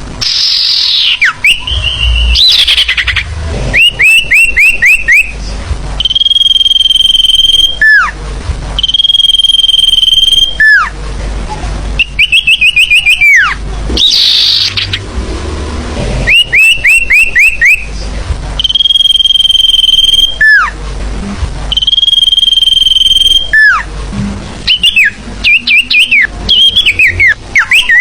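Bird-lure recording of the forest bird called sirtu, calling over and over. Long steady high whistles, each ending in a quick downward slur, alternate with rapid runs of four or five short chirps, used to draw wild birds in.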